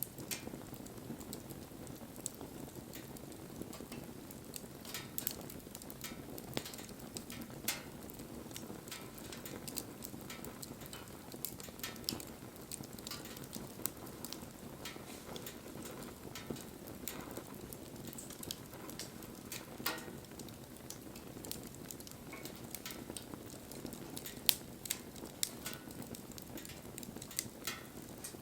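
Wood bonfire burning: a low, steady rush of flame under irregular sharp crackles and pops from the burning wood, one louder pop near the end.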